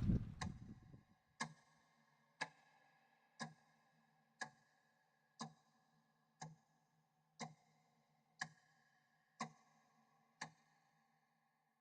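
Faint, clock-like ticking: ten sharp, evenly spaced ticks, one a second, each with a brief ringing tail. Wind noise dies away in the first second.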